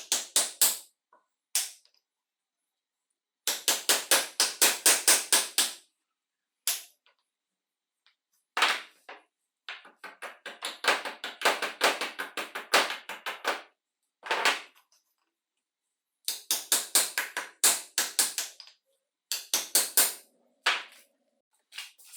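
Bursts of rapid, sharp scraping or clicking strokes from hand-tool work on metal parts, several strokes a second. Each run lasts one to two seconds, with silent gaps between.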